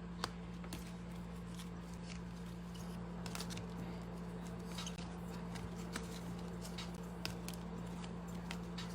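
Faint scattered clicks and rustles of trading cards being handled and set down, over a steady low hum.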